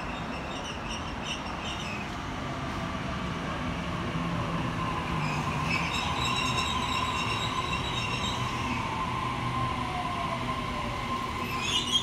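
Sydney Trains Waratah A-set electric double-deck train pulling into the platform and slowing. Under a steady rumble there is an electric motor whine that falls in pitch as it decelerates. High-pitched brake squeals come through the middle, and a rising squeal sounds near the end.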